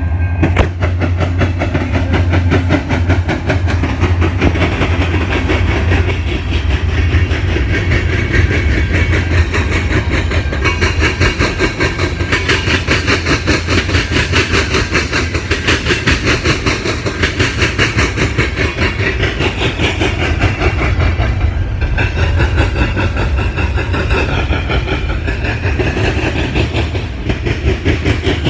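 Illinois Central mixed freight train's cars rolling past, wheels clicking rapidly and steadily over the rail joints over a steady low rumble.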